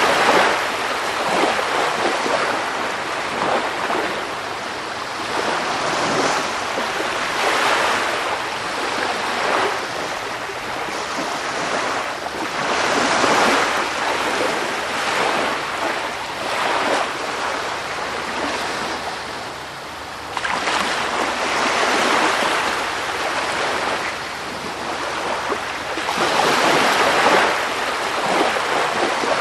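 Sea waves breaking and washing on a shore, a continuous rush that swells and ebbs every few seconds.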